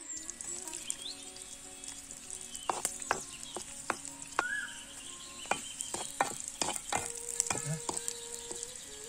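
Garlic and leaves frying in hot coconut oil in a clay pot: a steady sizzle, with sharp crackles and pops from about three seconds in as a wooden spoon stirs.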